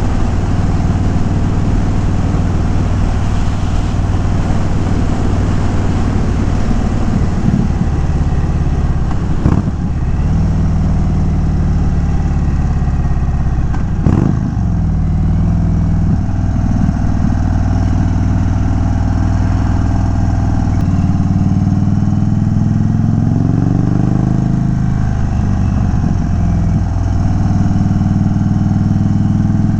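2022 Indian Chief Dark Horse's V-twin running on the road through a Dean Speed Rampage exhaust with no baffles, with a steady engine note. About two-thirds of the way through the revs change, the pitch dropping and then climbing again. Two brief knocks come about a third of the way in and near the middle.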